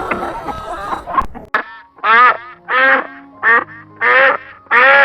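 Duck quacking over and over, about one loud quack every three-quarters of a second. The quacks begin about a second and a half in, after a short stretch of busier, mixed farmyard noise.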